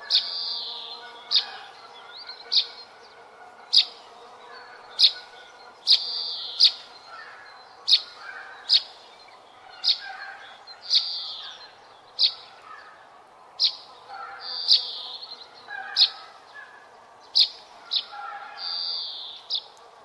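Songbirds chirping: one sharp, high, very short call repeats about once a second, with longer buzzy chirps every few seconds and fainter bird calls underneath.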